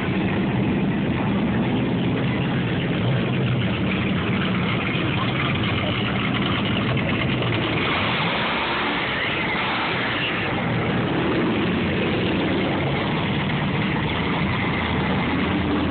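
Car engine running at idle with a steady low rumble, under a constant haze of background noise.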